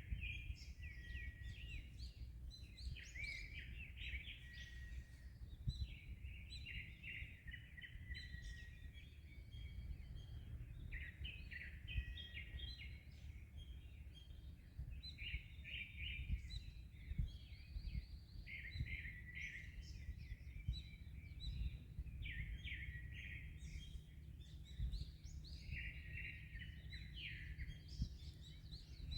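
Small birds chirping and trilling in many short phrases with hardly a pause, over a steady low rumble of wind and surf.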